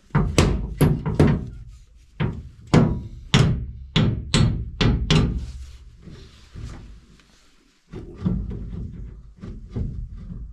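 Hammer blows knocking at something to work it loose: about a dozen hard, sharp strikes in the first five seconds, then fainter knocks and scraping.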